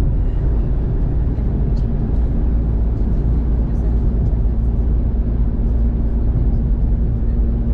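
Steady low rumble of road and engine noise heard inside a car driving on a wet road, with faint ticks of rain on the car.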